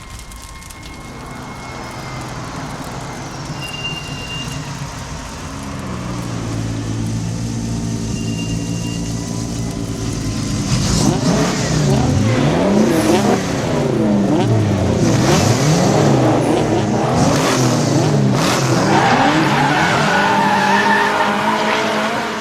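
Several high-revving car engines racing, their pitch sweeping up and down as they accelerate and shift, with tyres squealing. It starts fairly quiet, and from about ten seconds in it grows louder and busier as several engines rev over one another.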